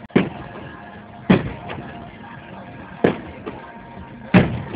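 Aerial firework shells bursting overhead: four loud booms about a second and a half apart, with fainter bangs between them.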